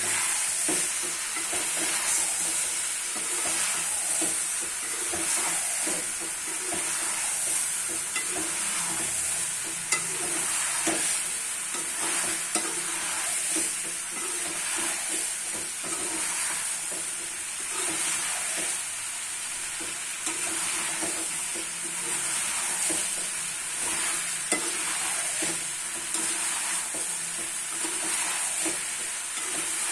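Boiled green chickpeas with chicken and potatoes being lightly fried (bhuna) in oil in a pot, sizzling steadily while being stirred, with irregular scrapes and a few light knocks of the stirring utensil against the pot.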